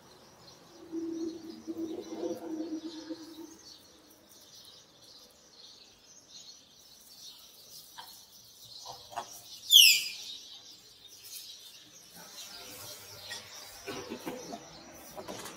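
Birds chirping steadily, with one loud, quick falling call about ten seconds in. A low hum is heard for a couple of seconds near the start.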